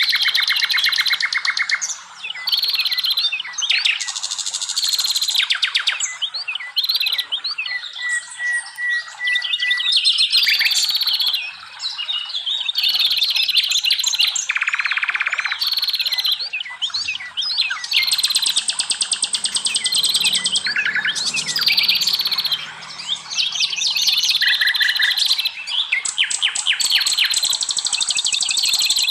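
Several wild songbirds singing at once in a dense, continuous chorus. Rapid buzzy trills overlap with repeated short falling whistles, with hardly a pause.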